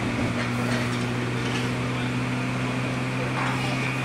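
Steady low electrical hum inside a 103 series electric train car, with no wheel or motor running noise: the car's onboard equipment humming while the train stands.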